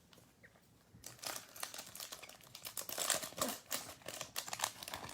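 Foil trading-card pack wrapper crinkling and crackling as the pack is opened, starting about a second in.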